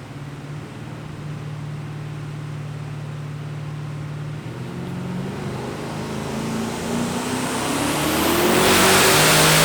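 Twin-turbo Ford Godzilla 7.3-litre V8 of an XF Falcon on a chassis dyno: the engine holds a steady note for about four seconds, then revs up with a steadily rising pitch into a loud full-power pull near the end.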